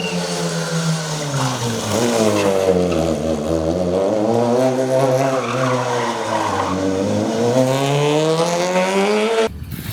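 Peugeot 208 R2 rally car's engine at speed, its revs falling for a couple of seconds to a low point in the middle, then climbing, dipping once more and climbing again. The sound cuts off suddenly just before the end.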